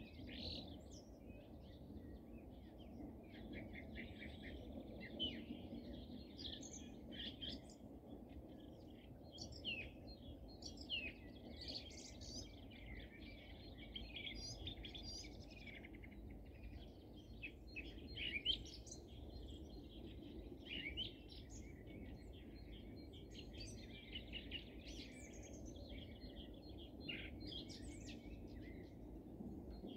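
Songbirds singing and chirping: many short, overlapping chirps and trills, over a faint, steady low background noise.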